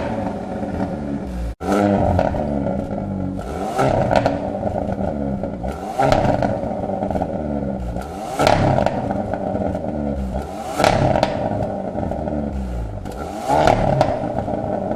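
Hyundai Veloster N's 2.0-litre turbocharged four-cylinder revved repeatedly through an aftermarket valved exhaust, about six rising and falling revs every two seconds or so.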